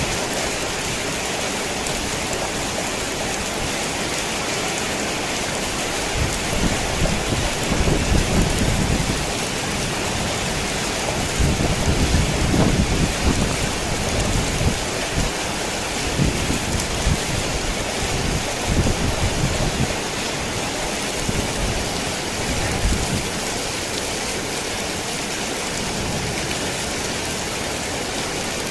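Heavy rain pouring steadily on a worn tin roof, with thunder rumbling in several low rolls that build up about a fifth of the way in, peak near the middle and die away before the end.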